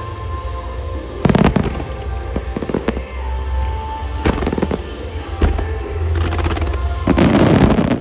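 Fireworks shells bursting several times, with a dense, loud spell of crackling bursts near the end, over music playing through loudspeakers with a heavy bass beat.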